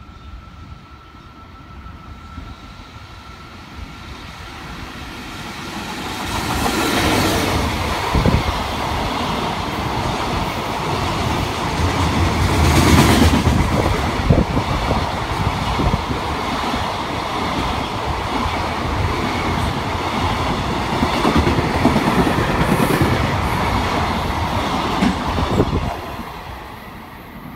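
JR Freight EF65 electric locomotive hauling a long container freight train through at speed. It grows louder as it approaches, then the container wagons run past for about twenty seconds with a steady stream of wheel clicks over the rail joints. Near the end the noise drops away quickly as the last wagon clears.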